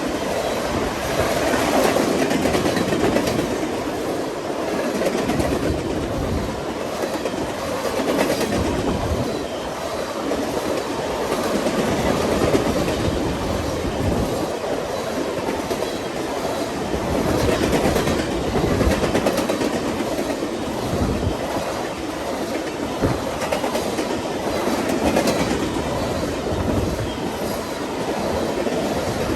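Long freight train's cars rolling past, wheels clattering on the rails, with the sound swelling and easing every few seconds.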